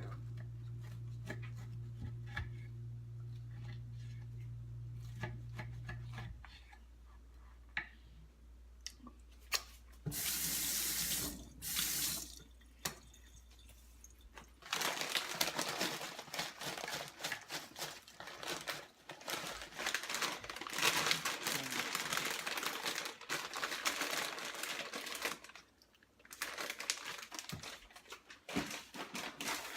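Kitchen tap running into a sink: two short gushes about ten seconds in, then a steady flow from about halfway through, with a brief break near the end. Before that, a steady low hum stops about six seconds in.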